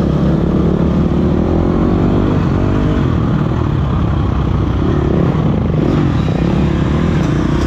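Dirt bike engine running hard on a motocross track, its pitch rising and falling with the throttle.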